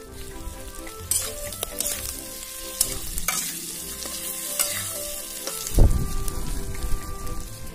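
Pork sizzling in an aluminium kadai, stirred with a metal spatula that scrapes and clicks against the pan. There is a heavy thump about three-quarters of the way through.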